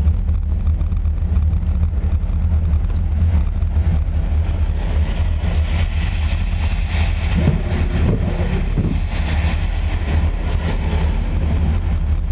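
Steady low rumble of an idling car engine, heard from inside the car's cabin.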